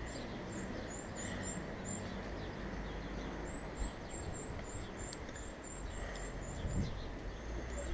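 Small bird chirping: runs of short, very high chirps over a steady outdoor background noise.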